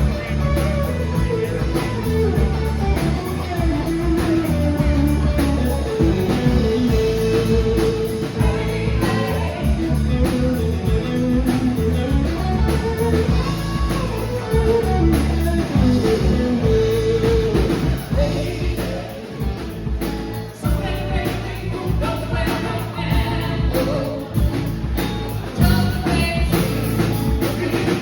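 Live rock band playing: drums, bass and electric guitar, with a sustained, gliding melody line on top.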